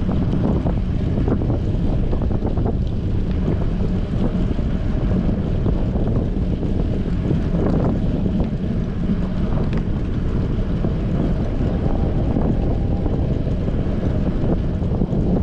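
Strong wind buffeting a bicycle-mounted GoPro's microphone while riding: a loud, steady low rumble with scattered small clicks.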